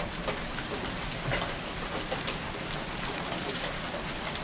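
Heavy rain falling steadily, with a few sharp knocks of large hailstones striking concrete scattered through it.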